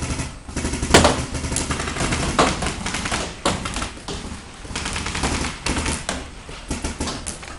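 Paintball markers firing, sharp pops coming in quick runs of shots, the loudest about a second in.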